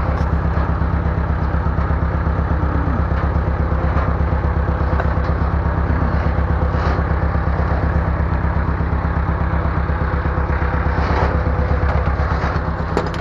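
Bulldozer engine running steadily with an even low pulsing beat, with occasional clanks and scrapes from the machine at work.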